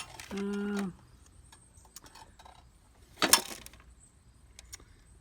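A man's short, level 'hmm' while thinking, then a brief loud breathy rush about three seconds in, with a few small clicks.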